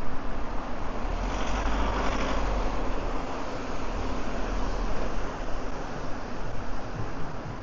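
Road traffic noise, with a vehicle going past in a swell of sound about one to three seconds in, over a steady low rumble.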